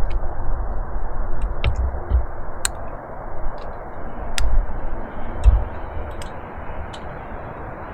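Scattered metal clicks and clinks of hand tools and sockets being handled, with a few dull low knocks, over a steady background hiss.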